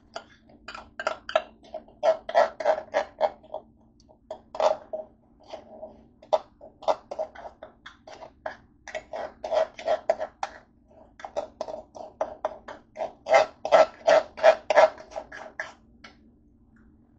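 Close-up eating sounds: chewing and lip-smacking, quick wet mouth clicks about four a second, coming in runs and stopping about a second before the end, over a faint steady hum.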